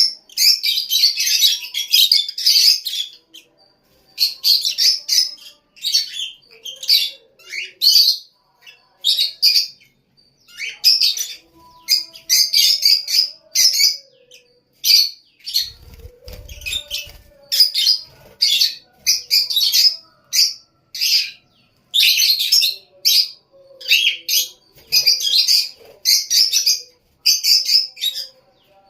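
African lovebirds chirping in short, shrill bursts, one after another with brief gaps, about one burst a second.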